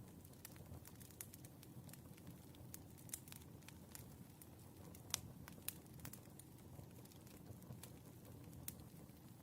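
Wood fire burning, faint, with a low steady rumble and irregular sharp crackles and pops, a few louder pops around the middle.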